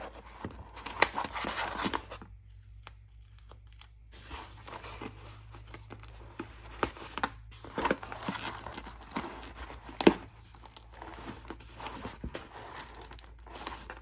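Crinkling, tearing handling noise with scattered sharp taps and clicks, as adhesive-backed Velcro is peeled and pressed onto the foam-board airplane; the sharpest clicks come about a second in and again about ten seconds in.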